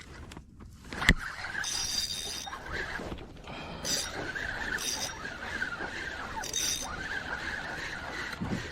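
Fishing reel being worked on a kayak: a sharp click about a second in, then a continuous wavering whine with intermittent higher squeaks.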